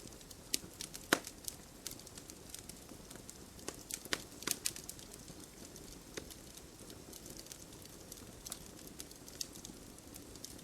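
Campfire of burning wood crackling: irregular sharp pops and snaps over a low, steady hiss, with a loud pop about a second in and a cluster of louder pops about four seconds in.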